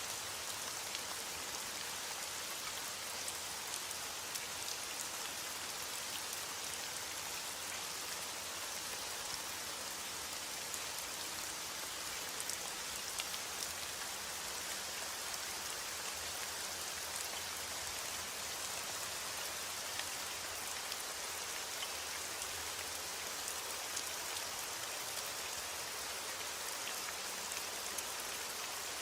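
Steady heavy rain falling, with scattered individual drops audible in a constant hiss.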